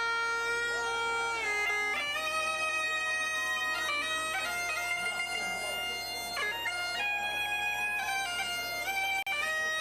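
Music: a wind instrument playing long held notes that step from one pitch to another over a steady drone.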